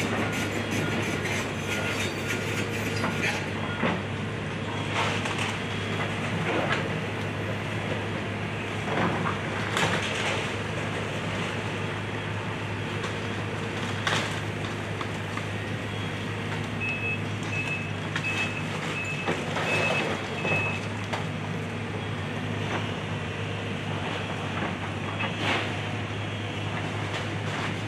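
Excavator's diesel engine running steadily while it tears apart a house, with scattered crunches and crashes of breaking wood and debris. About two-thirds of the way in, a backup alarm beeps about six times.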